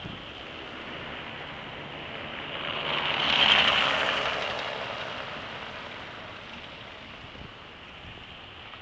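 A vehicle passing on a snowy, slushy street: a rushing tyre hiss that swells to a peak about three and a half seconds in and then slowly fades, over a steady background hiss.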